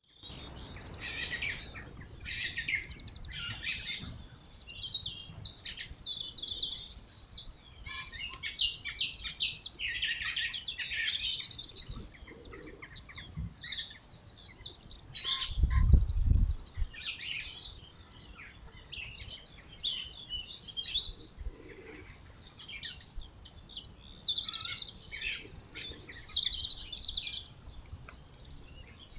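Small woodland birds chirping and calling in many short, high notes. About halfway through comes a brief low rumble, the loudest sound here.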